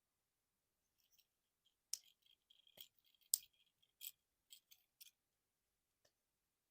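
Plastic parts of a Transformers action figure clicking and snapping as it is transformed: a run of about a dozen sharp clicks, grouped from about two to five seconds in, with the loudest near the middle. There are faint ticks before and after.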